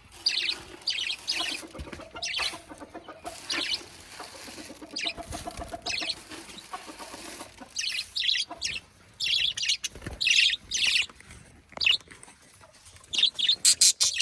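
Pet parrots chirping in many short, rapid bursts, with hens clucking beneath them: birds excited at feeding time.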